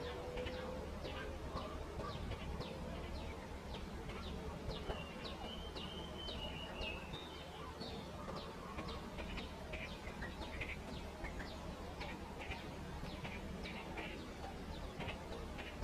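Pipit calling: a steady series of short, high chirps, about two a second, with a brief warbling phrase about five seconds in, over a low steady rumble.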